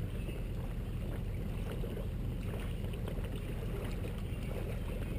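Steady low rumble of the tow vehicle's idling engine, picked up through the camera mounted on the vehicle.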